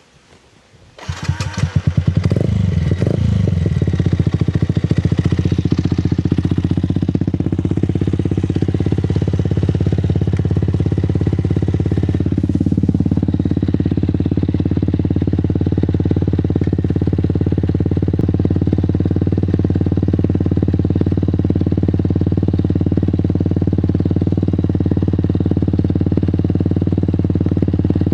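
Fantic Caballero 125 scrambler's single-cylinder four-stroke engine starting about a second in, revved twice briefly, then idling steadily.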